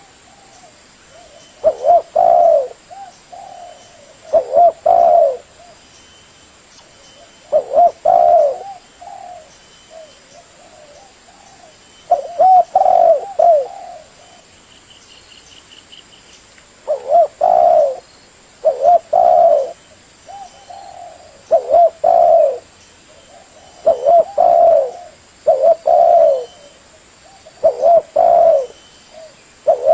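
Spotted dove cooing over and over, in short phrases of low coos that come every two to three seconds, with softer notes between them.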